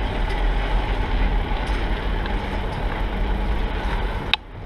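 Wind buffeting the microphone of a moving bicycle, a steady low rumble with a hiss over it. A sharp click near the end, after which the noise drops away for a moment.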